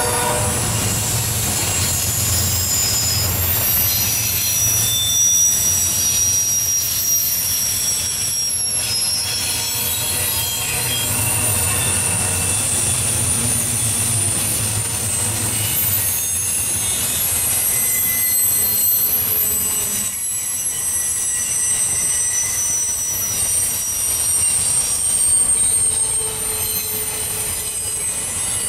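Double-stack intermodal container cars rolling past on a freight train: a steady low rumble of steel wheels on rail, with high-pitched wheel squeal coming and going.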